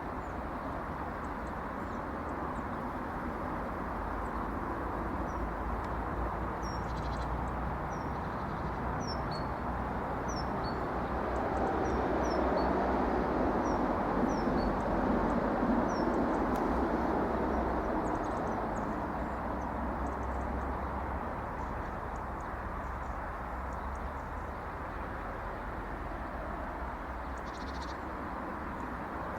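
Outdoor ambience: a steady low rush that swells and fades in the middle, with a run of short, high bird chirps in the first half.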